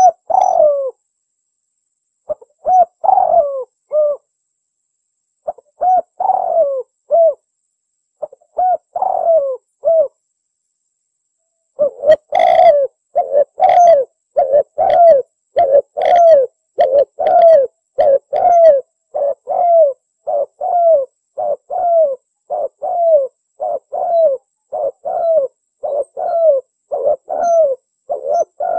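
Spotted dove (tekukur) cooing, the song of a contest bird played as a lure call. It starts with a few spaced coo phrases, then from about twelve seconds in runs into a fast, unbroken series of coos, roughly one and a half a second.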